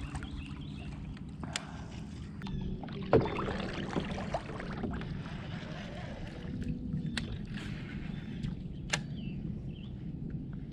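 Water and hull noises around a fishing kayak, with a steady low rumble and several sharp clicks and knocks, while a hooked bass is being fought.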